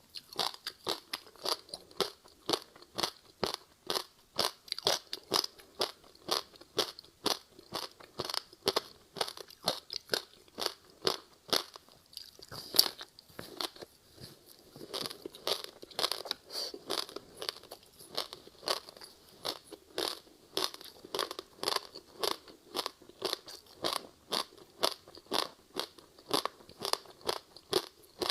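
A person biting and chewing frozen passion-fruit ice with sesame seeds in it: a steady run of sharp crunches, about three a second, with one especially loud crack about halfway through.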